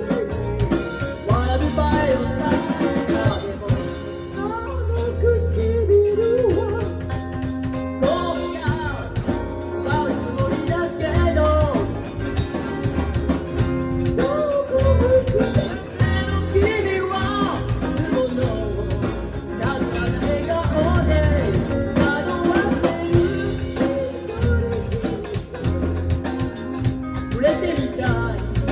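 Live band music: drum kit, bass and guitar playing steadily under a bending lead melody.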